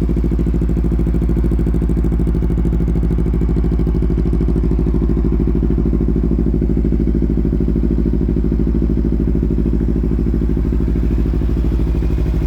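2017 Kawasaki Ninja 300's parallel-twin engine idling steadily, with an even exhaust pulse and no revving.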